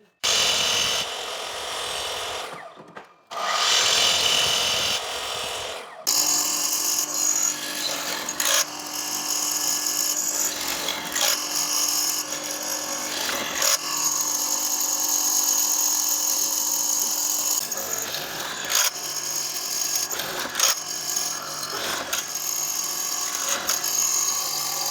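Power tools working wood, in short edited segments: two brief runs that cut off abruptly, then, from about six seconds in, a steady run of a machine with a low hum and a high whine, with a few short knocks.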